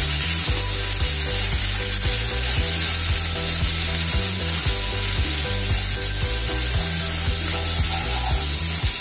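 Chopped green chillies frying in hot mustard oil in a kadhai, sizzling steadily while a spatula stirs them around the pan, with background music carrying a bass line underneath.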